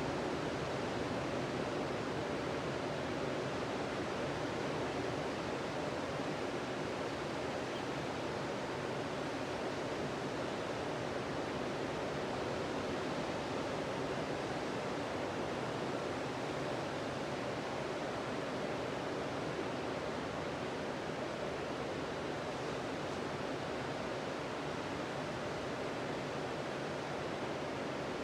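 Sea surf washing onto a beach: a steady, even rush of noise with no distinct swells or breaks.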